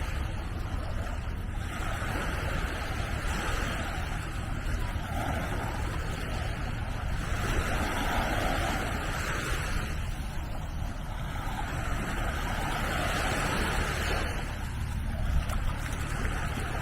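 Small sea waves washing onto the beach, the hiss swelling and fading every few seconds, with wind rumbling on the microphone.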